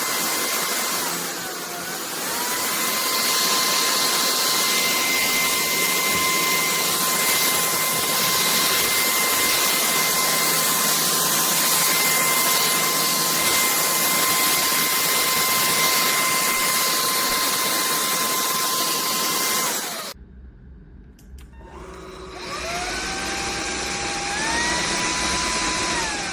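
SKIWEC 600W cordless stick vacuum running with a steady high whine. The pitch sags briefly about two seconds in, then recovers. Near the end the sound cuts out, and the motor starts again with its pitch rising in two steps.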